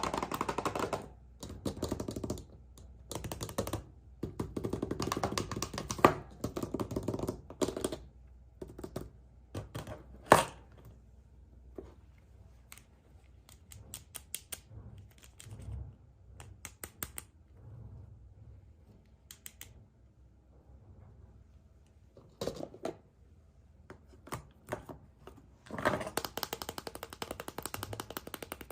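Wrappers crinkling and plastic clicking as surprise eggs are unwrapped and opened by hand: bursts of crackly rustling with scattered clicks, and two louder sharp snaps about six and ten seconds in.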